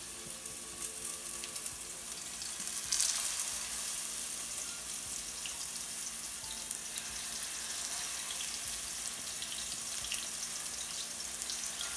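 Ground turkey patties sizzling and crackling in hot oil in a skillet as they are laid into the pan one after another, with a louder surge of sizzle about three seconds in.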